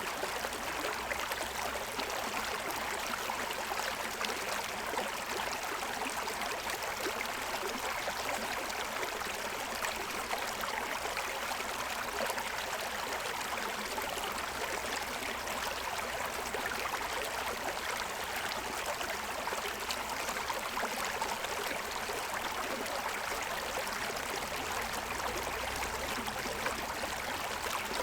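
Forest stream running over the stones of its bed, a steady rush of water.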